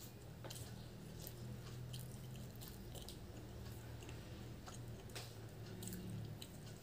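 Close-miked chewing of puri and ghugni with the mouth closed, with scattered small clicks and wet squishes from fingers tearing the puri and dipping it into the gravy, over a low steady hum.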